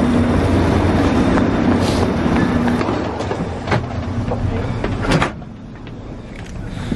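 Loud rumble and hum of a high-speed train standing at a station platform, with a few footstep knocks. The sound drops suddenly to a quieter hum about five seconds in, as from inside the carriage.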